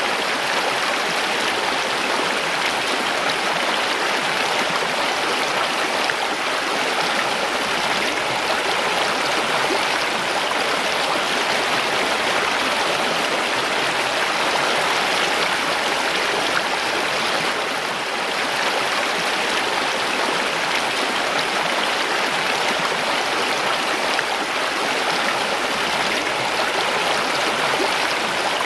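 Mountain stream rushing and gurgling over rocks, a steady, even wash of water noise.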